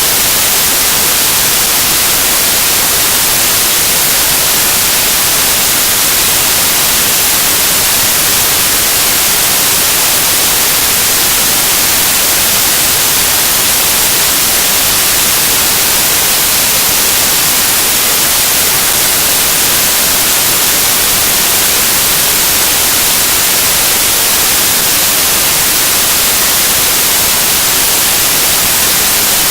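Loud, steady static hiss, unchanging throughout, with no speech or other sound: an audio fault in the recording.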